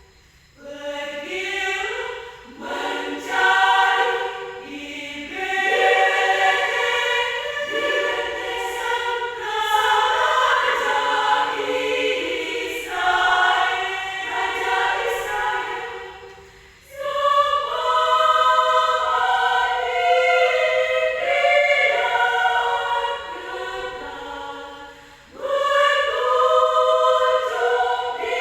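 Women's choir singing a cappella in several parts, a church choral piece sung in phrases with brief breaths between them, the longest about 16 s and 25 s in.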